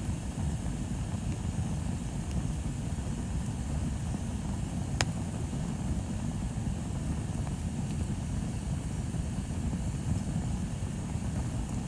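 Bonfire burning: a steady low rumble, with one sharp crackling pop about five seconds in.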